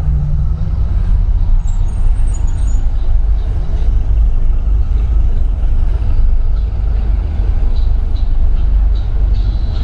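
Steady low rumble of road traffic, heavy in the bass, with no clear rising engine note.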